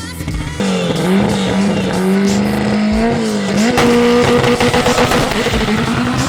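Drag racing car's engine held at steady revs with tires squealing, as in a burnout; the engine note starts suddenly about half a second in and steps up in pitch about halfway through.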